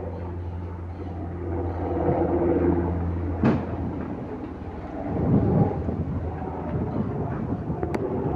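Low rumble of aircraft engines, with a steady low hum for the first three seconds or so. A single sharp knock comes about three and a half seconds in, after which the rumble turns rougher and swells briefly around the middle.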